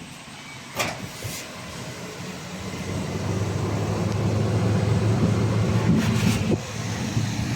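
Laser welding machine running with a low hum that builds over a few seconds and then eases, marked by a sharp click about a second in and a short run of clicks near the end.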